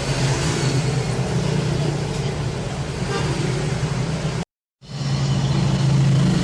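Steady road traffic noise, with a low engine-like hum running under it. The sound cuts out completely for a split second about four and a half seconds in.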